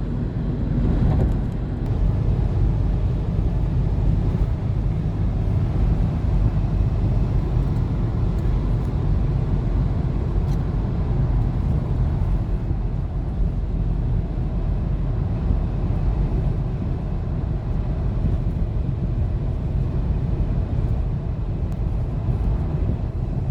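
Steady low rumble of a car on the move, engine and road noise running evenly.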